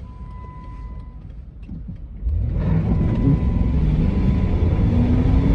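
2009 Jeep Commander's 5.7-litre Hemi V8, heard through a partly lowered window. It runs quietly at first. About two seconds in the throttle opens and the engine gets much louder, its note climbing steadily as the SUV accelerates.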